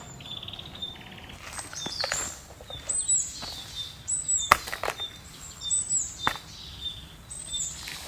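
Forest birds singing: a high call that drops at its end repeats about every one and a half seconds over a thinner repeated note. A few sharp knocks or snaps cut in, the loudest about halfway through.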